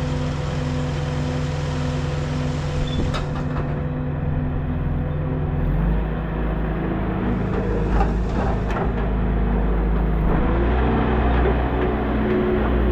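The engine of a heavy machine running steadily. Its note deepens about six seconds in and climbs again about ten seconds in, with a few short knocks along the way.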